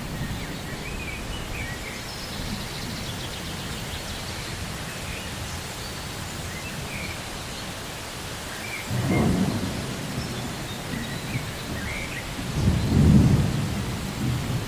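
Steady rain falling, with a low roll of thunder about nine seconds in and a longer, louder rumble near the end.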